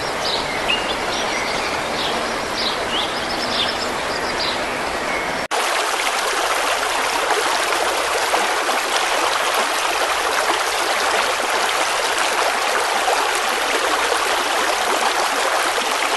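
Floodwater rushing steadily, with birds chirping over it for the first few seconds. About five seconds in, a hard cut brings a louder, fuller rush of water.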